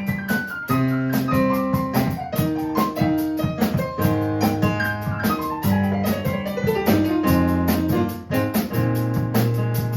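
Keyboard played live in a piano voice: fast descending runs of notes over held bass notes, with an even drum beat ticking behind.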